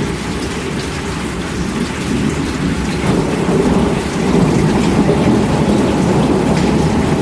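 Steady heavy rainfall with a deep rumble of thunder under it, swelling slightly about three seconds in.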